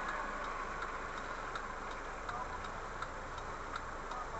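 A car's turn-signal indicator ticking steadily, about three ticks a second, over a low engine and road hum inside the cabin.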